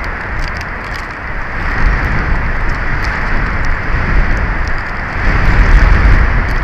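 Strong wind gusting across the nest camera's microphone: a steady rush with heavy low rumbling buffets, loudest about five seconds in, and faint small ticks throughout.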